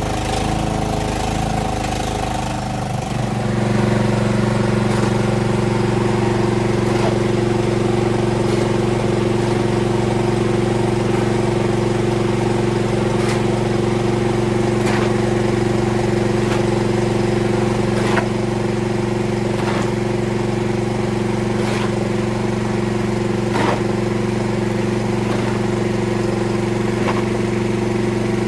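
Snowblower engine starting up, settling to a steady pitch within the first few seconds and then running steadily at speed, with faint sharp clicks every second or two.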